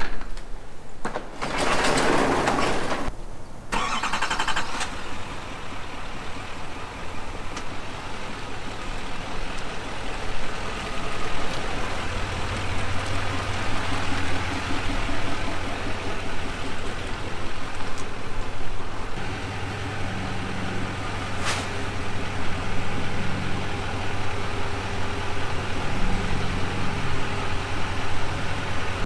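Pickup truck engine running, with a loud burst of noise in the first few seconds, then a steady low drone that grows heavier from about twelve seconds in.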